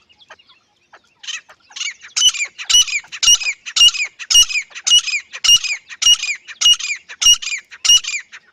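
Dakhni teetar (grey francolin) calling: a rhythmic series of loud, shrill, repeated calls, about two a second, starting about a second in and growing louder, then stopping just before the end.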